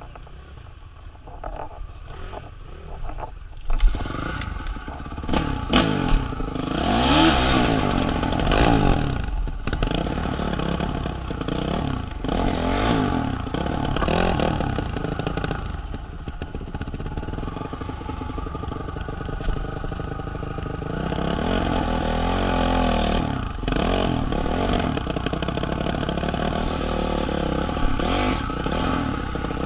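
A motor vehicle's engine revving up and down again and again, with clattering and scraping over rough ground. It is quieter for the first few seconds, then runs at high revs with repeated rises and falls in pitch.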